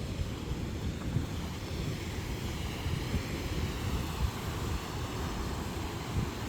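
Wind buffeting the microphone: a steady, uneven low rumble with no distinct tones.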